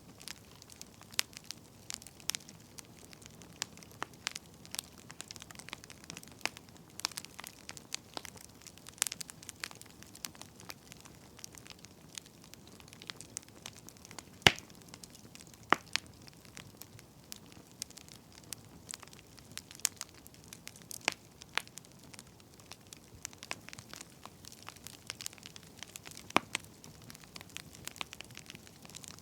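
Wood fire crackling: a soft steady hiss with irregular sharp pops and snaps, one louder pop about halfway through.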